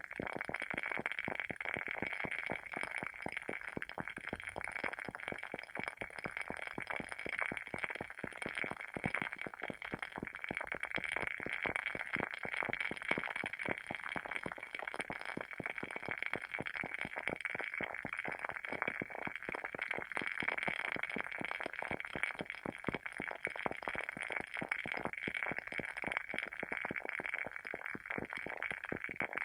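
Wooden wick of a WoodWick candle burning with a dense, steady crackle of quick small pops.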